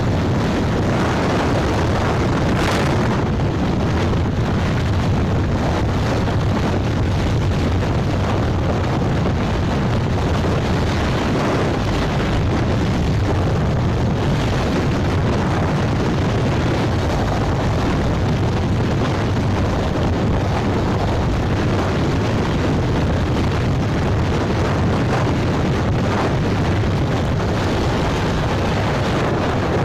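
Wind buffeting the microphone of a moving motorcycle, with engine and road noise underneath; steady throughout, with a short knock about three seconds in.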